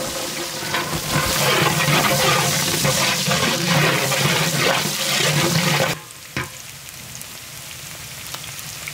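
Shallots sizzling in hot oil in a large metal pot, stirred with a long metal ladle. The sizzle is loud at first, then drops sharply quieter about six seconds in and carries on steadily.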